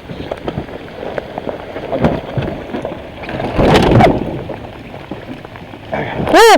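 Steady rain pattering on the water and the boat, with a louder rush of noise about three and a half seconds in. A man shouts near the end.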